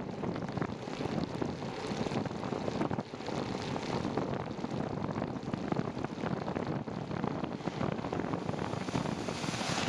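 Wind buffeting the microphone of a moving bicycle, mixed with steady tyre and road noise on wet pavement.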